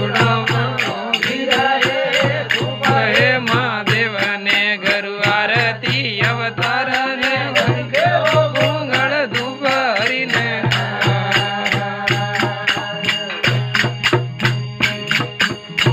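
Rajasthani desi bhajan music: a wavering melodic line over fast, steady jingling percussion and a pulsing low note. The melody drops out about two-thirds of the way through, leaving the percussion and low note.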